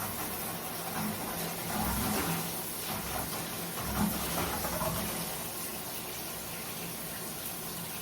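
Water running steadily from a bathtub faucet to test a freshly unclogged tub drain, with a soft knock or two in the first half, the clearest about four seconds in.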